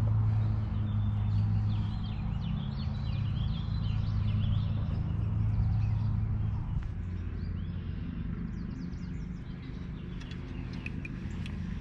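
Small birds chirping and calling over a steady low hum, which eases off about seven seconds in.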